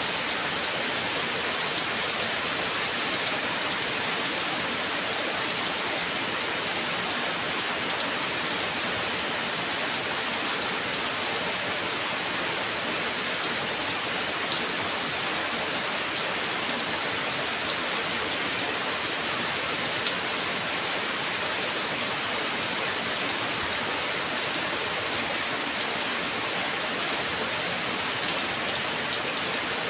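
Steady heavy rain: an even hiss of falling rain with scattered drop ticks, unchanging throughout.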